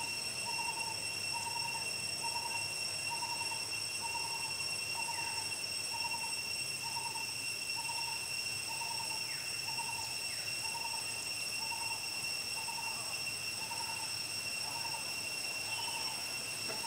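A bird repeating one short note about twice a second, over a steady high-pitched insect drone, with a few faint falling chirps from other birds.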